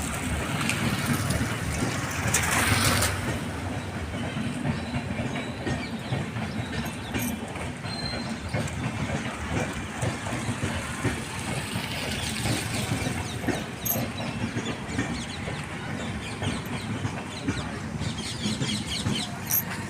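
Heavy rain falling, a steady dense patter that swells louder for a moment a couple of seconds in.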